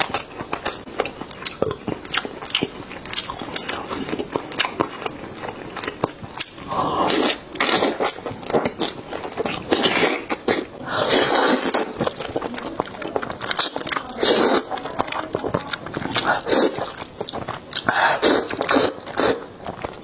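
Close-up eating sounds of a person biting and chewing saucy chicken drumsticks: wet clicks and smacks throughout, with several heavier bouts of chewing lasting about a second each.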